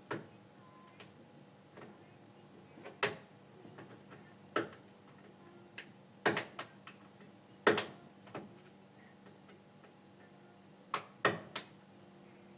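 Irregular sharp clicks and knocks of objects being handled, about a dozen spread unevenly, with the loudest near the middle, over a faint steady hum.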